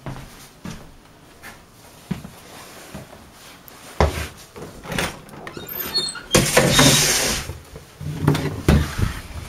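A door being worked: scattered knocks and latch clicks, a few short squeaks about six seconds in, then about a second of loud rushing noise, followed by more knocks.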